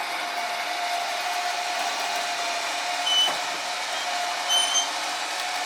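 A machine running steadily, with a level whine over an even rushing noise; a few short high-pitched chirps sound over it about three seconds in and again near the end.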